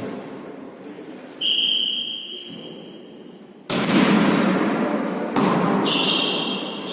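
Volleyball thumping on a hall floor and off players' hands, the loud strikes about two thirds of the way through ringing out in an echoing hall. Two short, high shrill tones sound before and after the strikes.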